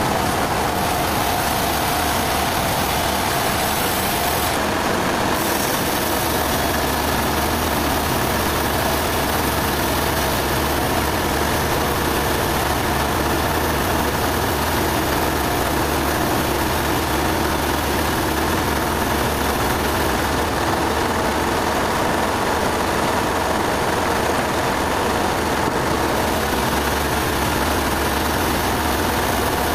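An engine running steadily at an even speed, a constant machine hum with no changes.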